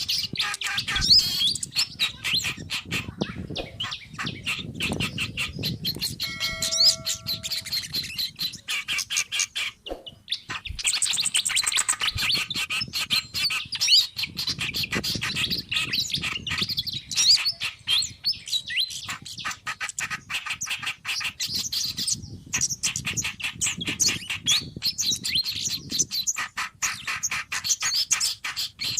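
Several small songbirds calling over one another in a busy, fast stream of short chirps and tweets, a mixed bird-trapping lure recording. A brief held, even-pitched call stands out about seven seconds in.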